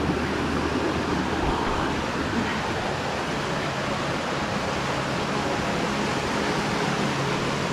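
Water of a tiered rock waterfall rushing over its cascades in a steady, even roar of noise.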